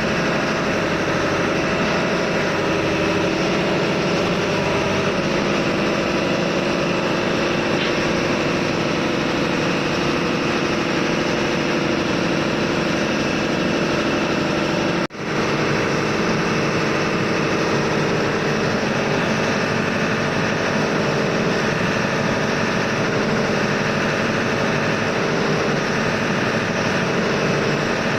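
Ship's engine-room machinery running steadily: a constant engine drone with several steady hums on top, broken only by a momentary dropout about fifteen seconds in.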